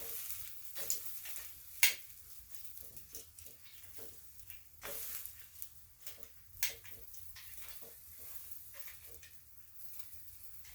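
Quail fat dripping onto hot charcoal, crackling and spitting in irregular pops with short hissing flares, and one sharp pop about two seconds in.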